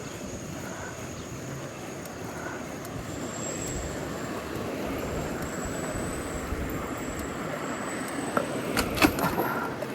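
City street traffic and wind noise heard from a moving bicycle, with a few sharp clicks near the end.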